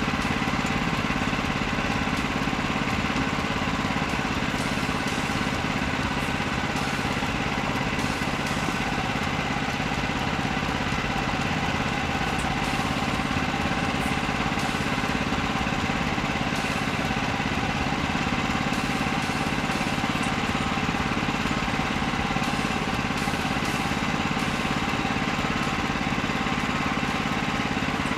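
Engine running steadily at an even speed, with no revving or change in load.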